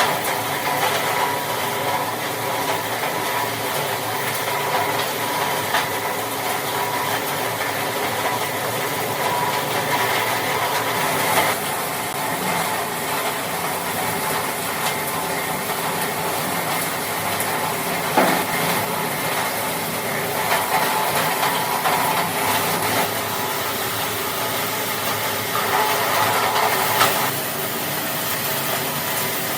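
Factory machinery running steadily, with a few sharp clicks and knocks of metal work.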